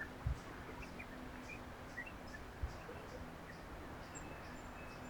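Faint, short bird chirps scattered over a steady outdoor background hiss, with two brief low thumps, one just after the start and one about two and a half seconds in.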